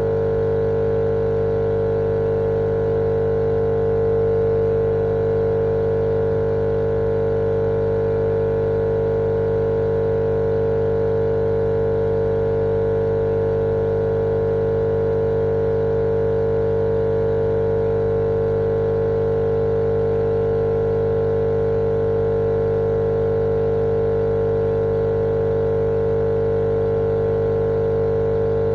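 Steady, unchanging machine hum with one strong mid-pitched tone over a lower drone, played as a continuous white-noise loop.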